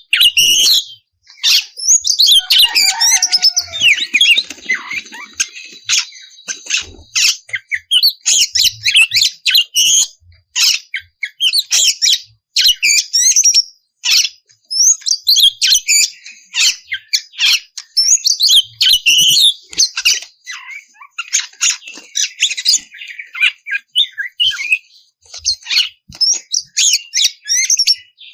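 Oriental magpie-robin singing: a fast, varied stream of high chirps, whistles and harsh notes, broken by short pauses.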